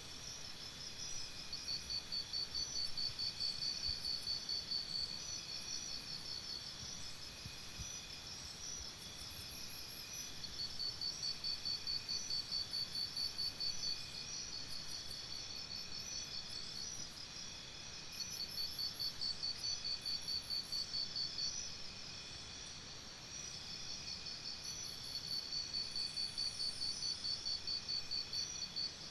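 Crickets chirping in a fast, even pulsing trill. A louder trill swells in and fades four times, each stretch lasting about four seconds.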